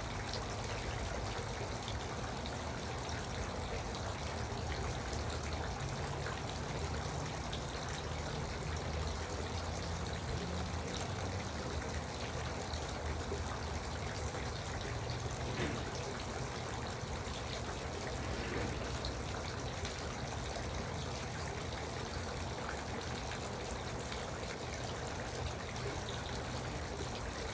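Garden water fountain running, water trickling and splashing steadily.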